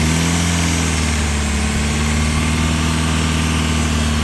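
Car engine held at a steady raised speed just after being revved up from idle, its pitch settling slightly in the first second. The idle is raised by hand to drive the belt-driven fixed-piston AC compressor faster and pull the low-side pressure down.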